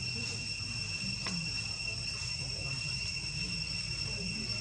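Steady high-pitched chorus of crickets trilling without a break, over a low background rumble, with one faint click about a second in.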